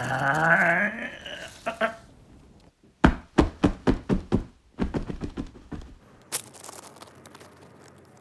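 A yell rising in pitch, then, after a short pause, a rapid run of about a dozen hard knocks and thuds over some three seconds, ending with one more single hit.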